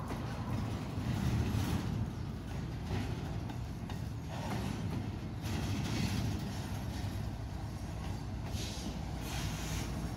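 Double-stack container freight train rolling past: a steady rumble of wheels on the rails, broken every second or two by louder rattling clacks.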